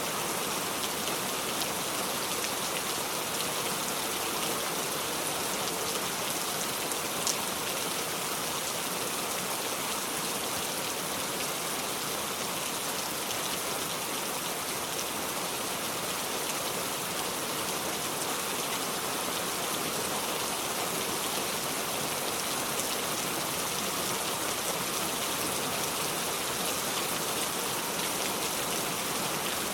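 Steady rain falling, without thunder: an even, continuous hiss of many drops, with one faint click about seven seconds in.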